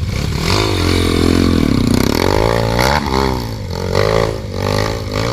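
Dirt bike engine revving hard, its pitch rising and falling repeatedly as the throttle is worked on a climb.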